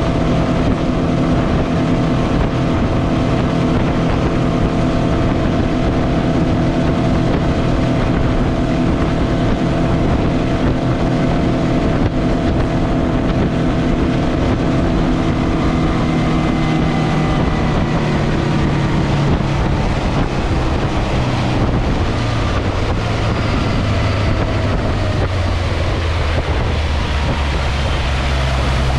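Mercury 150 hp FourStroke outboard, a four-cylinder four-stroke, running steadily at speed with wind on the microphone. About two-thirds of the way through, its pitch falls as the throttle comes back, and it settles into a lower, steady note.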